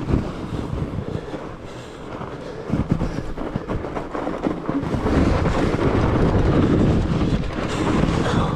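Rocky Mountain Blizzard fat bike rolling on studded tires over rough trail, a continuous rumble and rattle, growing louder about five seconds in.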